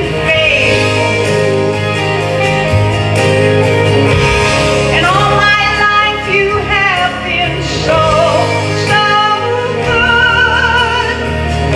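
Congregational worship song: voices singing a sustained, flowing melody over a band with bass and guitar.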